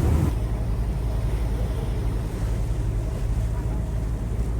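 Tour boat's engine running with a steady low drone, with wind on the microphone and the rush of the sea.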